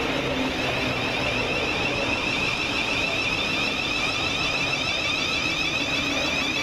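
An electric passenger train running at a station platform: a steady rumble and hiss, with a high, wavering whine over it.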